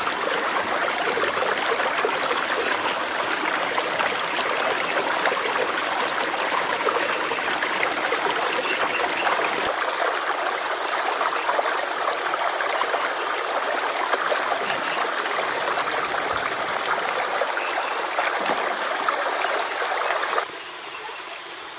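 Steady, loud rush of flowing water, cutting off abruptly about twenty seconds in.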